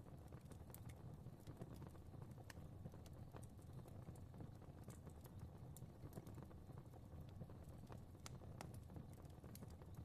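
Quiet fireplace fire crackling: scattered sharp pops and ticks over a steady low rumble of flame.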